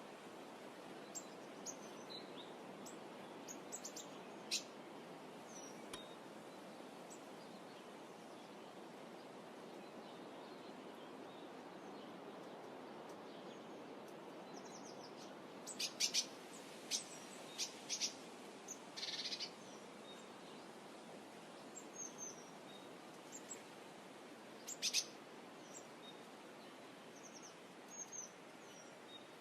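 Faint outdoor ambience: a low steady hiss with scattered short, high bird chirps and clicks. They bunch together a little past halfway, with one brief buzzy chirp, and again near the end.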